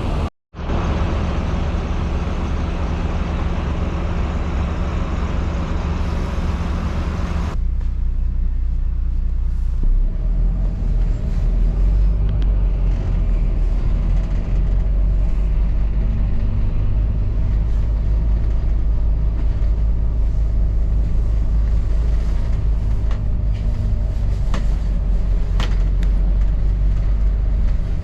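Low rumble of a double-decker bus heard from inside, with a broad hiss over it that cuts off suddenly about seven seconds in. The low rumble grows louder about ten seconds in and runs on steadily, with a few sharp clicks near the end.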